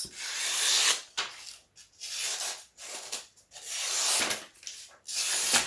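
Kitchen knife drawn in a series of strokes, about six dry hissing scrapes of half a second to a second each with short gaps between them.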